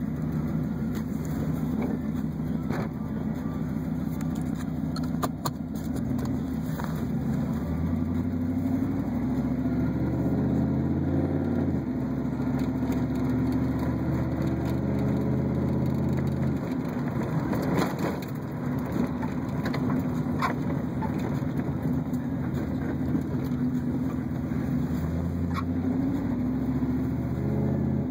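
Chevrolet Camaro Z28's V8 engine running while being driven cold, its note rising and falling repeatedly as it accelerates and shifts, with a few scattered clicks.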